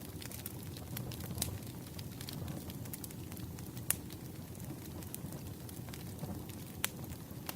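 Campfire crackling: a steady low rush of burning wood with scattered sharp pops and snaps, the loudest a little under four seconds in.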